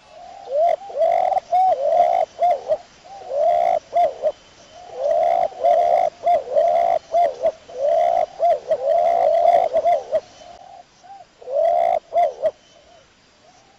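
Pigeon cooing: runs of rounded, arching coos repeated with short pauses, dying away about a second before the end.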